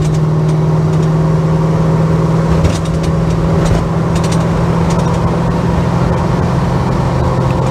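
Holden HK car's engine running steadily while driving, heard from inside the cabin, with a loose trolley jack rattling in the back of the car now and then.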